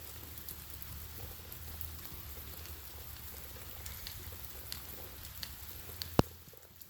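A steady hiss with scattered light ticks, like light rain on a surface. About six seconds in comes one sharp click, the loudest sound, and then the hiss dies down.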